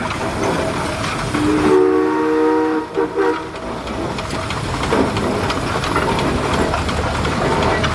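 Steam whistle sounding a chord of several notes for about two seconds, with a brief break near the end, over the steady running noise of passing engines.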